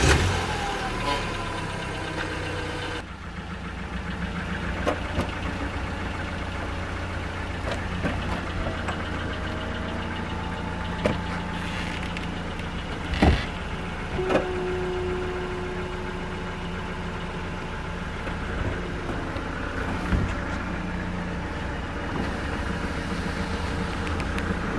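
Car on the move heard from inside: steady engine and road hum, with a few sharp knocks about 11 and 13 seconds in.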